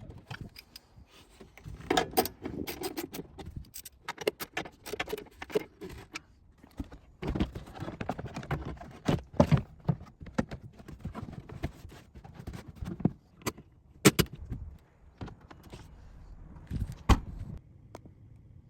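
Irregular metallic clicks, clinks and knocks of hand tools and metal fittings being handled during car-battery work, with a few louder knocks scattered through.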